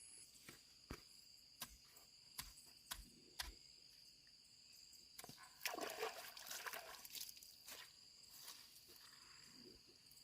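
A handful of sharp clicks or taps in the first few seconds, then about two seconds of louder rustling or scraping, over a steady high insect chirring.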